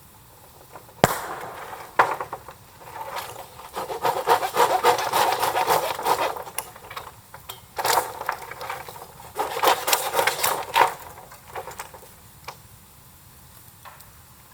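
Two sharp knocks a second apart, then two stretches of scraping and rubbing, a few seconds each, with a dense crackle to them.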